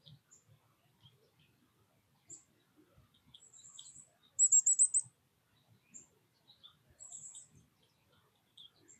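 Small songbirds chirping in high-pitched calls and short trills. The loudest is a quick run of about five notes about halfway through.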